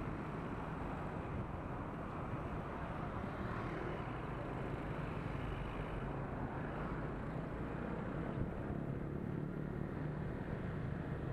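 Motorbike riding along: steady engine hum mixed with road and wind noise.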